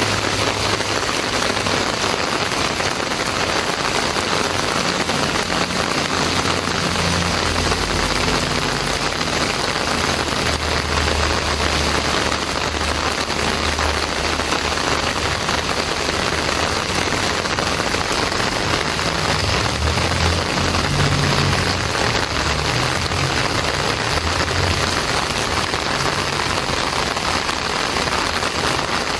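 Heavy rain falling steadily onto a paved lane: a dense, even hiss of drops that keeps the same strength throughout.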